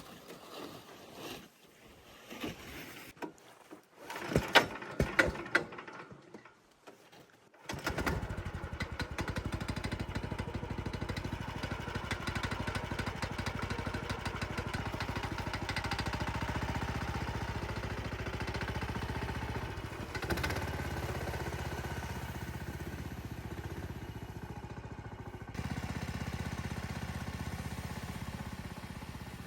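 A few irregular knocks and clatter, then about eight seconds in a small engine starts and runs steadily.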